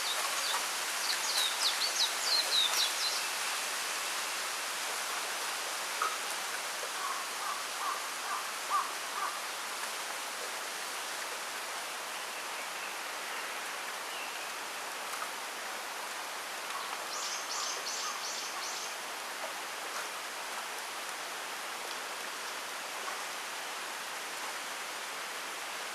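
Steady hiss of wind moving through a bamboo grove, with small birds chirping over it: a quick run of high, sharp notes near the start and again about two-thirds of the way through, and a few softer, lower calls in between.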